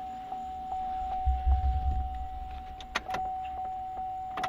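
New electric fuel pump in a 2004 GMC Envoy's tank running and priming the fuel system: a steady, even whine with faint regular ticking. A brief low rumble comes about a second in, and a couple of sharp clicks come near the end.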